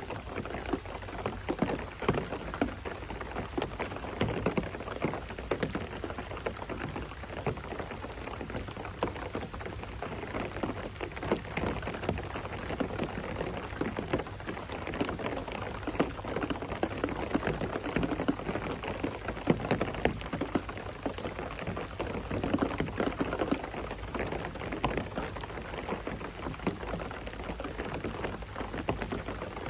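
Steady rain falling, with many irregular drops striking hard surfaces close by.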